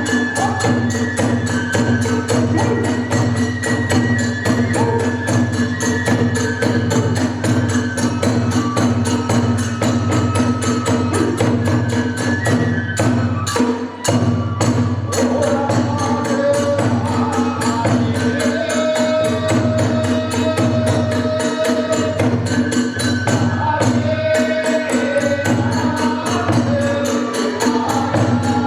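Kagura festival music: a fast, unbroken beat of drum and small hand cymbals, with a high melody line above a held low tone.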